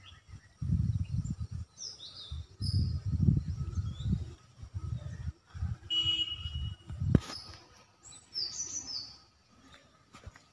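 Small birds chirping now and then in short high calls, over a run of low rubbing bumps from a pen drawing strokes on notebook paper. A single sharp click comes about seven seconds in.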